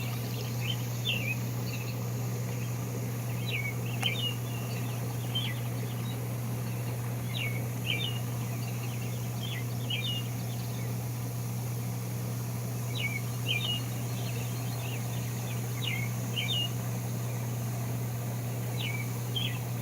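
Birds singing: short, high chirps that slide down in pitch, often in pairs, every second or so, over a steady low hum.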